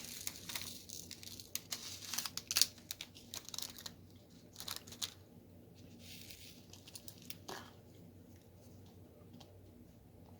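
Small plastic bag of diamond-painting drills crinkling as it is handled, with light plastic clicks. The crinkling stops about four seconds in, leaving scattered soft clicks and one brief rustle.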